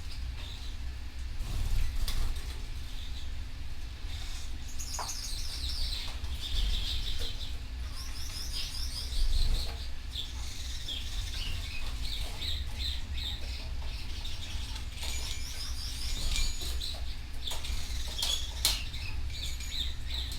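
Canary singing in rapid trills and chirps, the song starting about four seconds in and running on in long phrases, over a steady low rumble.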